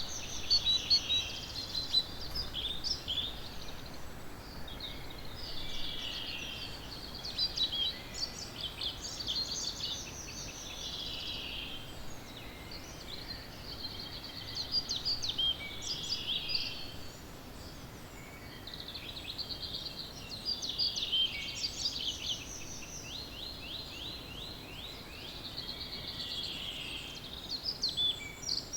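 Early-morning dawn chorus of several songbirds singing at once, their phrases overlapping almost without a break, some of them fast trills of rapidly repeated notes.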